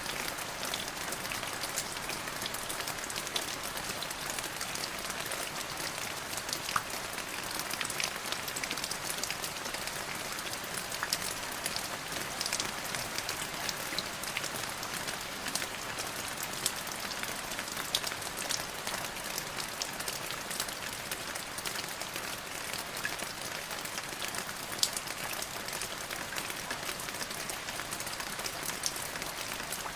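Steady rain falling on a surface, an even hiss dotted with many separate drop impacts.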